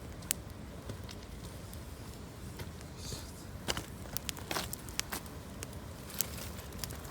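Campfire of gathered branches crackling, with irregular sharp pops that bunch together around the middle.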